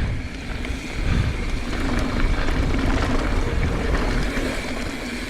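Wind buffeting the microphone over the rolling noise and faint rattles of a mountain bike descending a dirt trail.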